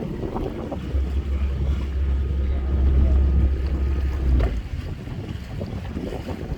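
Wind buffeting the microphone aboard a catamaran under way, over the rush of water. A strong low rumble from a gust swells about a second in and drops away after a few seconds.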